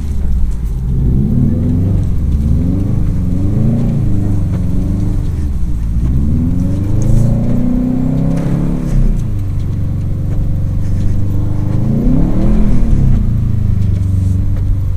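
Subaru WRX STI's turbocharged flat-four engine revving up and down repeatedly while driving, its pitch rising and falling in several surges, with a steadier stretch about two-thirds of the way through.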